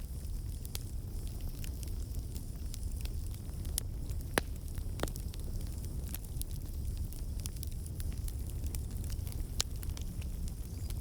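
Campfire burning: a steady low rumble of flames with scattered crackles and occasional sharp pops, two of the loudest about four and five seconds in.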